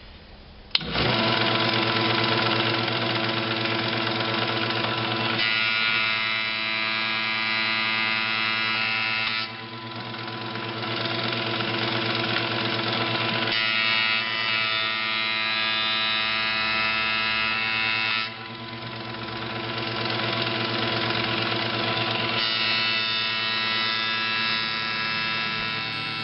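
Iida Mini Forte industrial planer running, its motor and insert-knife cutterhead giving a steady hum made of many fixed tones. The hum comes in suddenly about a second in, then drops back around ten and eighteen seconds in before building up again.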